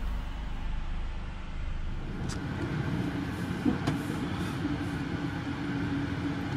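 Indian Pacific passenger train running, with a steady rumble. About two seconds in a steady hum sets in, with a couple of brief clicks.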